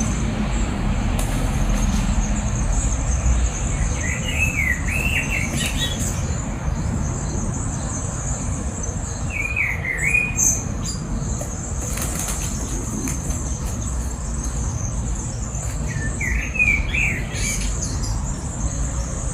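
Birds calling: three short warbling chirp phrases, about a quarter, half and most of the way through, over a steady rushing noise and a continuous high buzz.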